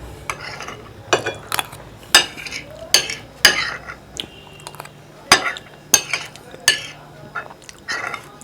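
A spoon scraping and clinking against a dish in a series of short, irregular strokes, stirring and scooping a soft mixture of chera with curd.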